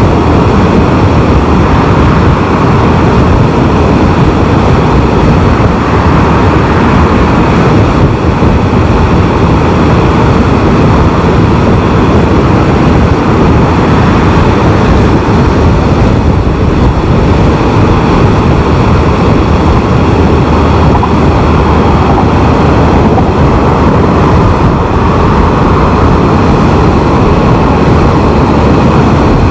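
Can-Am Spyder three-wheeled motorcycle riding at road speed: a steady, loud rush of wind and engine and road noise.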